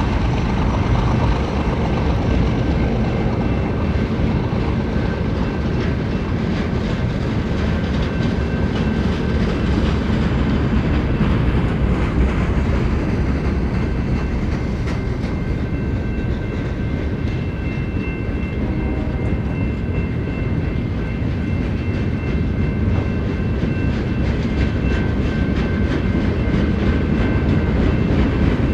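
A BNSF freight train's cars rolling steadily past, the steel wheels running on the rails, with faint thin high ringing tones in the second half.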